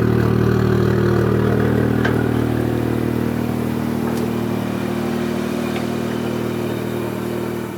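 Toyota JZX90 Mark II's 1JZ-GTE twin-turbo straight-six engine running at a steady engine speed, a low even drone that starts to fade out near the end.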